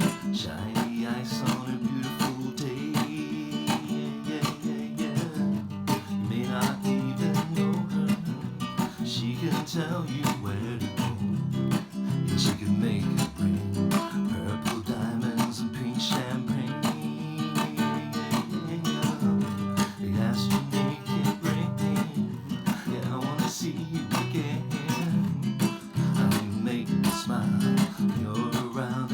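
Music: a song carried by strummed acoustic guitar.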